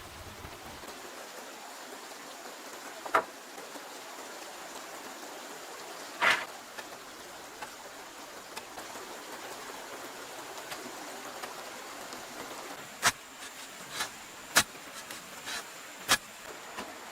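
Scattered sharp knocks over a steady hiss, with a thin, steady high insect tone. There is a single knock early, another a few seconds later, and a quick cluster of five or six near the end.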